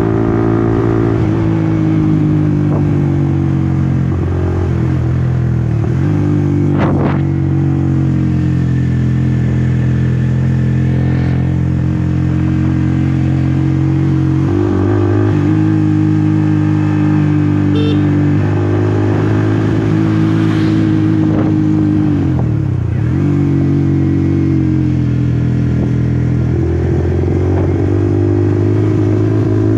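Honda CBR150R's single-cylinder engine running on the move, heard from on the bike. Its note dips and changes pitch a few times as the revs shift.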